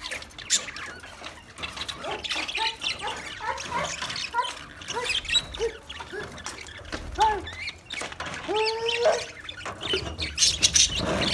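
Budgerigars chirping and chattering: many short, quick calls gliding up and down, with a few harsher squawks among them.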